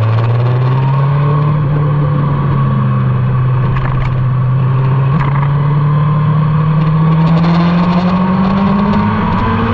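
Motorcycle engine running hard at track speed, its pitch holding fairly steady through the middle and then rising steadily over the last few seconds as the bike accelerates.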